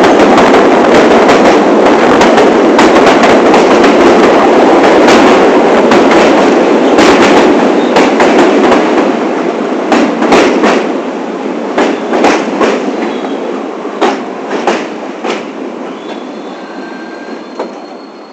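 New York City subway train on the 1 line running at speed with a loud, steady rumble. About halfway through it slows: the noise fades, single wheel clicks over rail joints stand out, and a faint high squeal comes in near the end.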